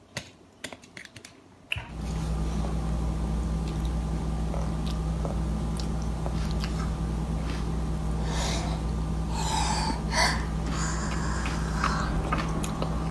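A toddler chewing slowly while nodding off, with soft mouth smacks and clicks. From about two seconds in, a steady low room hum runs under them.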